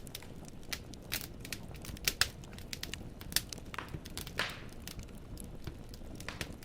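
Firewood burning in a fireplace, crackling with irregular sharp pops and snaps over a low steady rush of flame. There is a short hiss about four seconds in.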